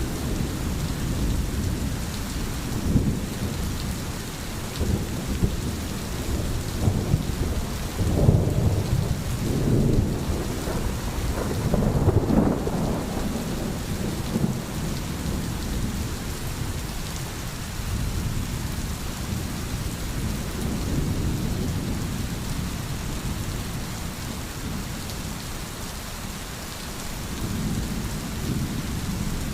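Steady rain with thunder rumbling low, swelling strongest in the middle and again briefly near the end.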